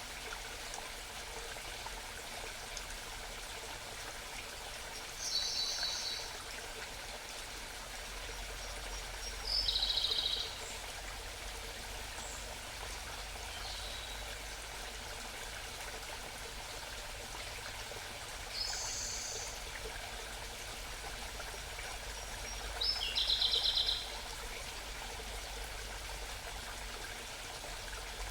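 A small mountain stream babbling steadily, with a songbird singing four short, high, trilled phrases a few seconds apart over it.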